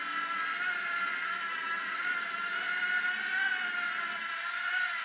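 Homemade robot vacuum cleaner's motors running with a steady whir, several high tones wavering slightly in pitch, stopping at the very end.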